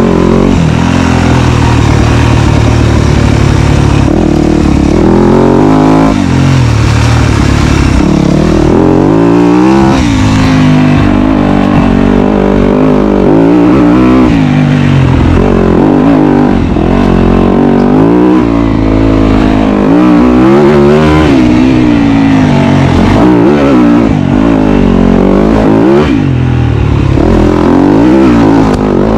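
Dirt bike engine running loud, its pitch rising and falling every second or two as the throttle is opened and closed.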